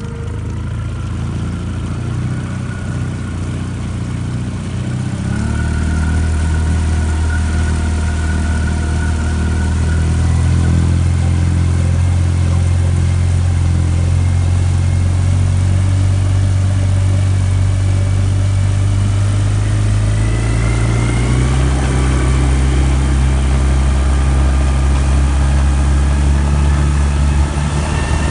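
Suzuki DF20AS 20 hp four-stroke fuel-injected outboard running at idle just after a pull start, its note stepping up about five seconds in and again near twenty seconds in as the idle settles.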